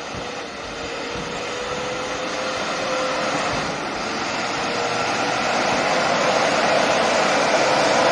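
A heavy vehicle's engine running with a steady whine, growing gradually louder.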